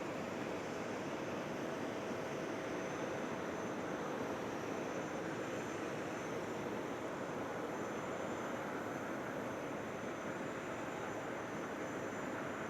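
Jet airliner engines heard as a steady, even rushing noise during a flying display, with no distinct changes in level.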